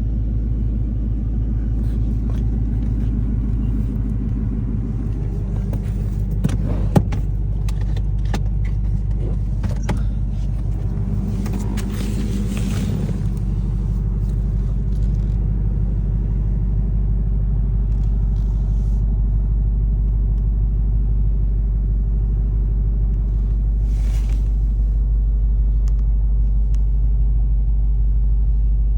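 A vehicle engine idling steadily with a low rumble. Scattered clicks and knocks come in the middle, with one sharp tap about seven seconds in.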